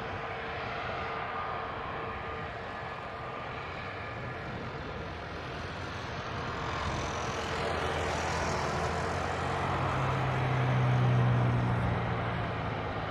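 Jet engines of an Airbus A320neo with CFM LEAP-1A turbofans, a steady rushing noise with a low hum. The noise grows louder from about halfway through, peaks near the end, then eases off slightly.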